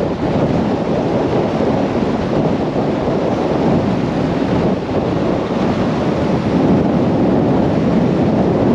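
Storm-force wind buffeting the microphone: a loud, steady rush of noise with no let-up.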